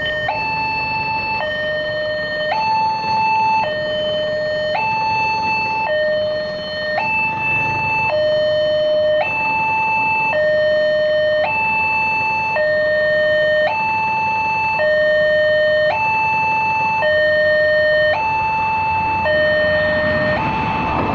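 Railway level-crossing warning alarm sounding a steady two-tone signal, alternating high and low, each tone held about a second, warning that a train is approaching. Near the end a broad rumbling noise rises beneath it.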